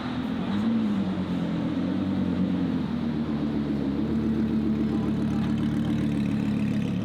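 Car engine idling steadily, its pitch wavering briefly about a second in.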